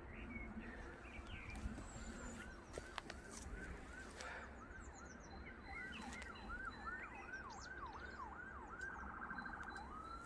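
A bird singing in the distance: a long series of whistled, rising-and-falling notes, two or three a second, that quicken into a fast trill near the end and then turn into a long rising whistle. Fainter high chirps from other birds sound above it.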